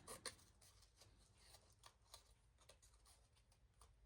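Faint, scattered snips of small scissors cutting paper, fussy cutting around a printed image, with a quick cluster of snips at the start.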